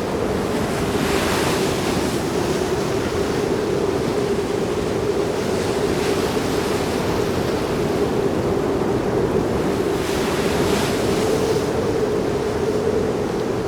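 Sea surf: a steady wash of waves, with swells of breaking water about a second in and again about ten seconds in, over a steady low hum.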